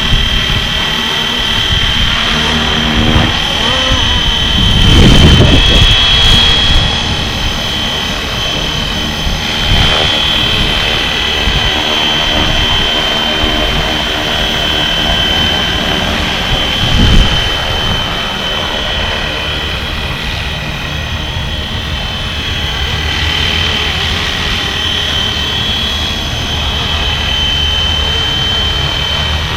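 Flywing FW450 V3 electric RC helicopter in flight, its motor and rotor making a steady high whine. Gusts of wind hit the microphone about five seconds in and again around seventeen seconds.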